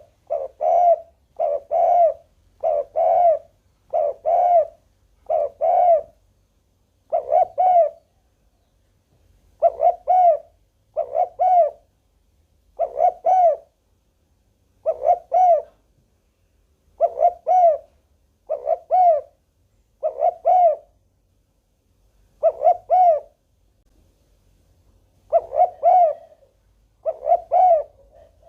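Spotted dove cooing over and over: low, pitched coos in pairs and short phrases, separated by brief pauses.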